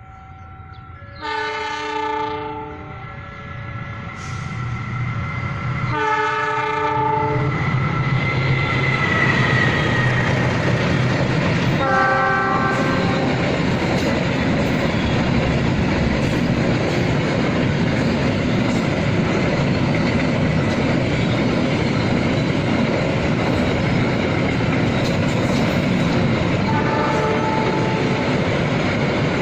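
A freight train's locomotive sounds its multi-note horn in blasts, three within the first dozen seconds and one more near the end. Between them the train runs by close with a steady loud rumble and the clickety-clack of wagon wheels over the rail joints.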